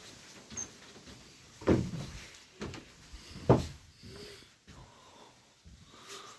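Footsteps on the old, creaky wooden floorboards of a homestead cabin: two heavy thuds about two seconds apart, with lighter knocks and a brief creak.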